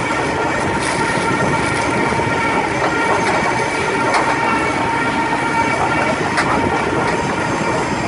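Mobile log debarker running: a loud, steady mechanical clatter with a steady whine through it and a few sharp knocks.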